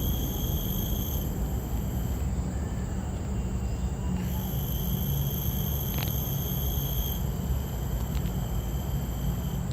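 Insects droning outdoors: a steady high-pitched whine that drops out about a second in and comes back about four seconds in, over a constant low rumble.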